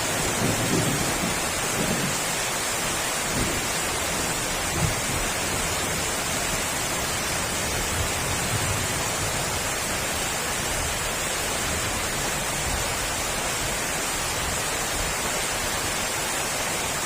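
Heavy rain pouring down in a steady, even hiss, with a low rumble coming and going during the first five seconds or so.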